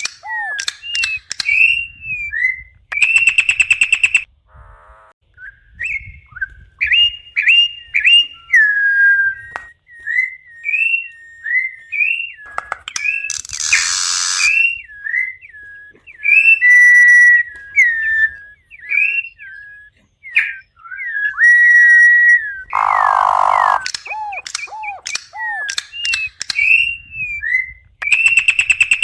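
Campo troupial (corrupião) singing: a long run of short, clear whistled phrases that glide up and down, broken a few times by brief harsh, buzzy notes.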